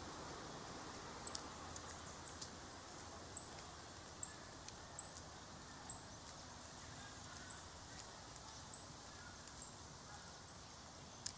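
Quiet outdoor ambience: a steady low background hum, with a small bird giving a short, high, thin chirp about once a second and a few faint sharp clicks.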